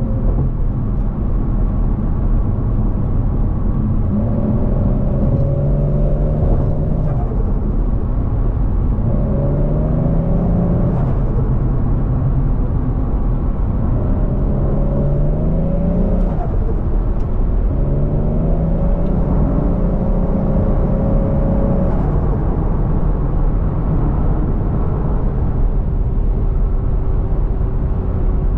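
Turbocharged 1JZ-GTE VVTi inline-six in a Scion FR-S on the move, its note climbing in pitch under acceleration and dropping back four times, then settling into a steady drone near the end.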